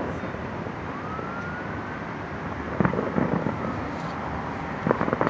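Distant fireworks going off: a sharp bang about three seconds in and a cluster of bangs near the end, over a steady wash of city noise. A faint emergency-vehicle siren wails underneath, gliding up about a second in.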